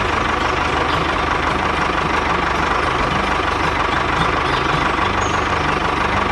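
Small engine of a DIY mini tractor running steadily just after being started, with a fast, even low pulse.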